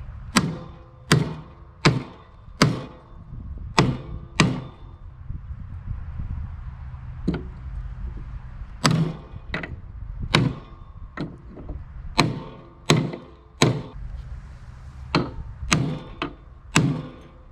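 Hammer blows on steel mower-deck parts, brute-force knocking to free seized or bent pieces. Sharp, ringing strikes come in two runs with a pause of about four seconds between them, over a steady low hum.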